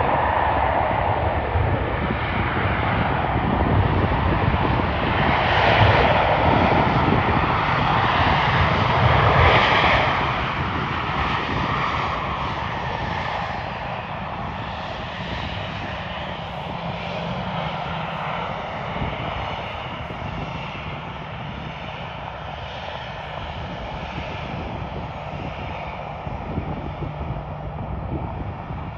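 A jet airliner's engines running loud as it passes, loudest in the first ten seconds or so, then fading steadily away.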